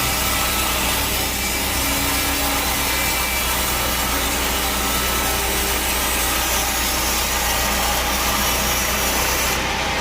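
Band sawmill blade cutting lengthwise through a teak log, a steady rasping hiss at an even level; near the end the high hiss drops away.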